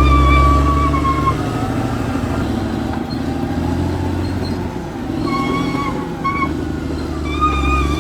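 Caterpillar D6R XL bulldozer's diesel engine running, its deep rumble easing about a second in, with intermittent high-pitched squeals over it.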